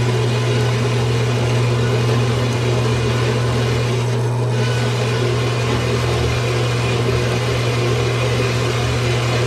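Harbor Freight bandsaw running steadily with a constant motor hum, its blade slowly cutting through the steel link of a hydraulic cylinder at a weld.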